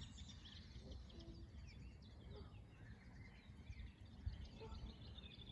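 Faint birdsong, many small chirps from several birds, over a low steady rumble.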